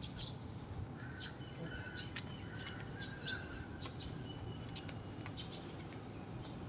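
Birds chirping, with short repeated calls and a thin held note partway through. A few sharp clicks break in, the loudest about two seconds in, over a low steady background rumble.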